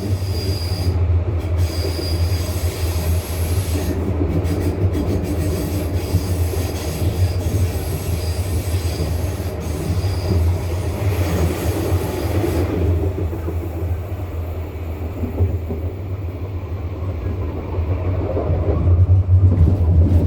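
Bombardier NGTD12DD articulated tram running along its track, heard from inside the car: a steady low rumble, with a faint high-pitched wheel squeal coming and going over the first half.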